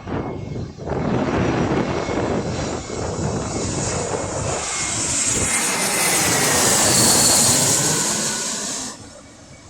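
Jet airliner passing close by, its engine noise swelling to a peak with a whine falling in pitch, then dropping away sharply near the end.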